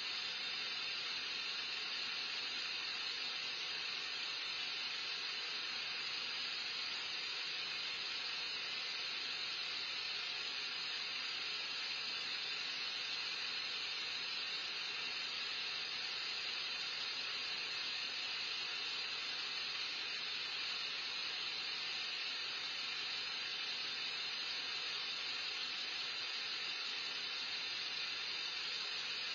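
Steady, even hiss of background noise, with no distinct events or changes.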